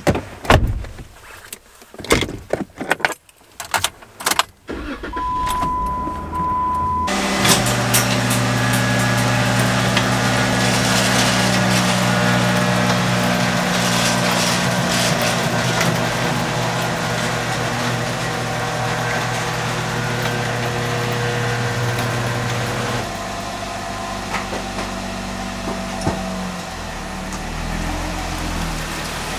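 Lifted Jeep Wrangler being started: clicks and knocks of the door and keys, a steady beep for about two seconds, then the engine catches about seven seconds in and idles steadily. Near the end the engine note shifts lower as the Jeep begins to move.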